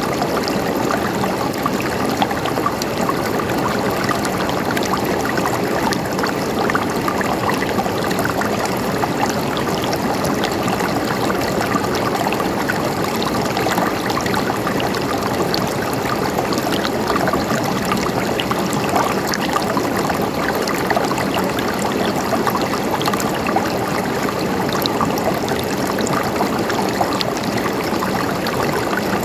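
A mountain stream running and gurgling steadily over rocks, an even rush of water flecked with small splashes.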